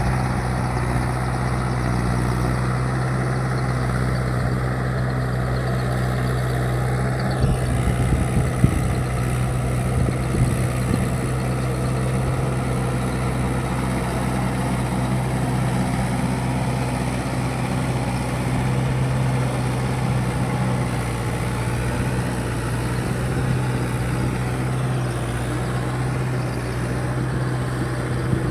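Mahindra 585 tractor's diesel engine running steadily, with a few knocks and rattles about eight to ten seconds in.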